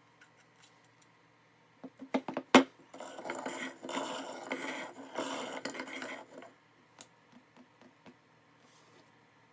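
Hard metal pieces clinking and knocking together a few times, the loudest knock about two and a half seconds in, followed by about three and a half seconds of scraping and rattling, then a few light clicks.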